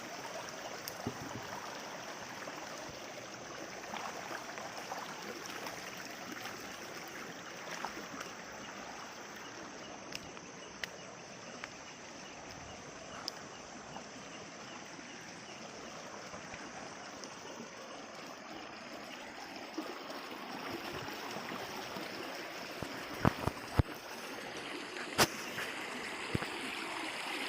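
Shallow rocky stream running steadily, water rushing and trickling over stones, with scattered small clicks and a few sharp knocks near the end.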